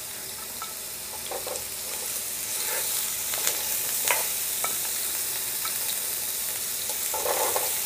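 Carrot slices and halved potatoes sizzling in hot oil in a frying pan, with scattered light knocks as the potatoes are spooned in from a glass bowl. The sizzling grows louder about two seconds in.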